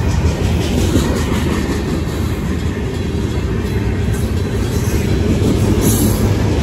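Freight cars of a Union Pacific manifest train rolling past close by: a loud, steady rumble of steel wheels on the rails as covered hoppers and a boxcar go by.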